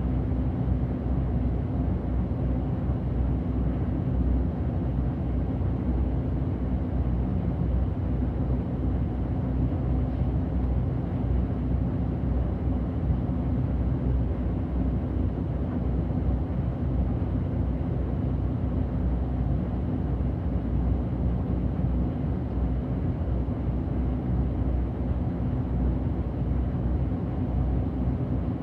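City bus engine and road noise heard from inside the bus while it drives, a steady low hum with no sharp events.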